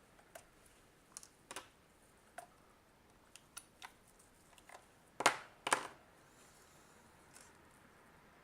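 Light, scattered clicks and taps of small plastic and metal parts being handled on a bench, with two louder clacks close together about five seconds in.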